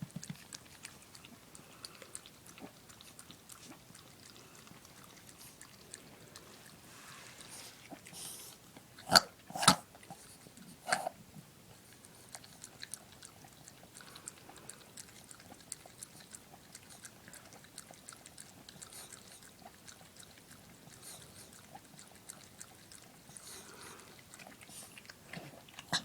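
A dog's mouth noises: a run of small irregular clicks, with three louder short, sharp sounds about nine, ten and eleven seconds in.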